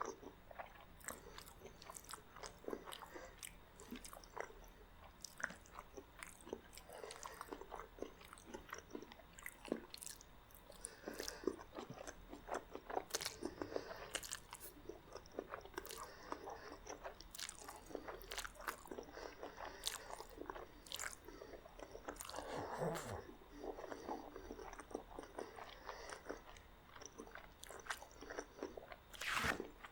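Close-miked eating of spaghetti and garlic bread: steady chewing and biting with many short, crisp clicks and crunches, and a louder bite or crunch near the end.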